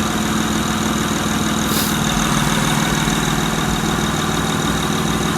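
Honda Accord 3.0-litre V6 idling steadily under an open hood, with a brief hiss about two seconds in.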